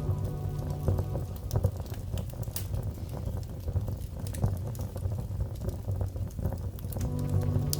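Wood fire crackling steadily over a low rumble, with several sharp pops.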